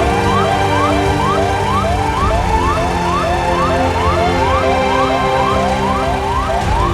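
Emergency vehicle siren on a fast electronic yelp: a tone that rises sharply and snaps back down about three times a second, over a steady low rumble.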